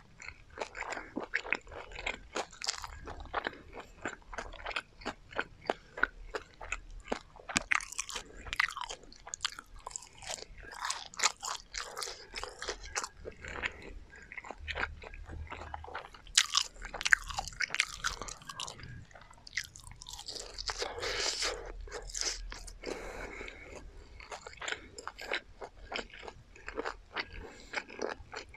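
Close-miked chewing and biting of crispy battered garlic fried chicken: a dense, irregular run of sharp crunches from the fried coating, with a smoother stretch of chewing about twenty seconds in.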